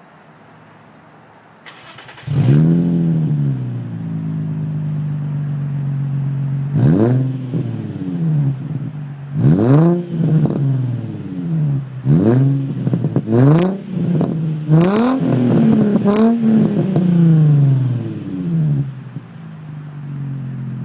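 Nissan 350Z's 3.5-litre V6 through a custom 2.5-inch single-exit exhaust, starting about two seconds in with a flare that settles to idle. Then about eight quick throttle blips, each a sharp rise and fall in pitch, before it drops back to a quieter idle near the end.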